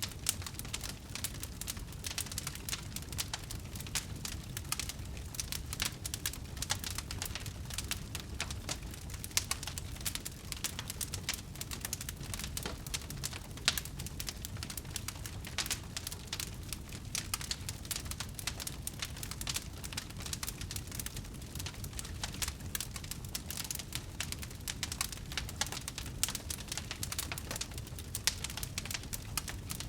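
Wood fire crackling: a dense, continuous stream of small snaps and pops from burning wood over a steady low rumble, with a few louder pops, the loudest about halfway through.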